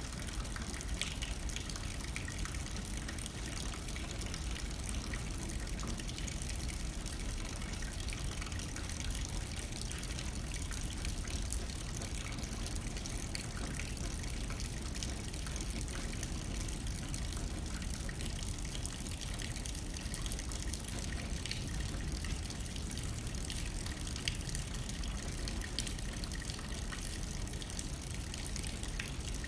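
Steady rain with many small drops ticking against a window pane, over a low wind rumble.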